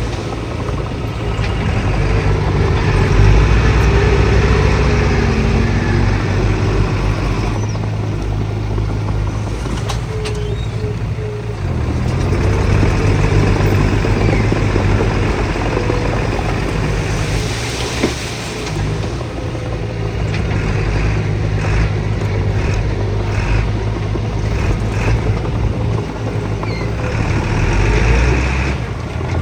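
Diesel engines of heavy earthmoving machinery running steadily under load. The sound changes abruptly several times, about 7, 12, 19 and 28 seconds in.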